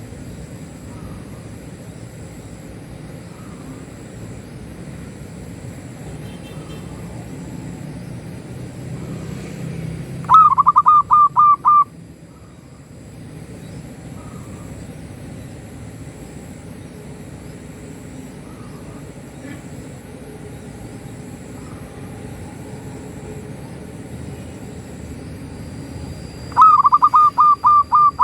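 Zebra dove (local perkutut) singing: two bouts of rapid coo notes in quick series, about ten seconds in and again near the end, over a steady low rumble.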